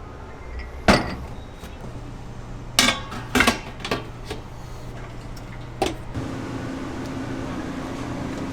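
Several sharp knocks and clatters, about five spread over six seconds, over a steady mechanical hum that gains a second, higher hum after about six seconds.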